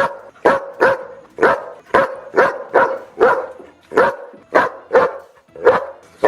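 A dog barking repeatedly in a steady rhythm, about two sharp barks a second.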